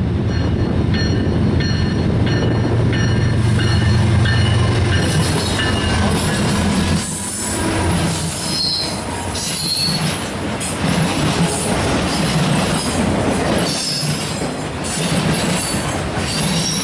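CN diesel freight train passing close by: the locomotives' engines drone for the first few seconds, then the freight cars roll past with wheels squealing in high tones and clicking over the track.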